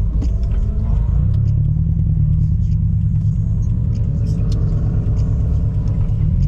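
Subaru BRZ's flat-four engine and exhaust running at low speed, a steady deep drone whose pitch rises and falls slightly.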